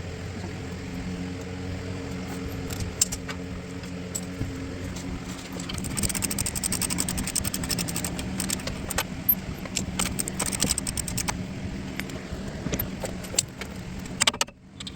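Floor jack being pumped under the truck's suspension to load it: irregular metallic clicks and rattles that thicken from about six seconds in, over a steady low hum.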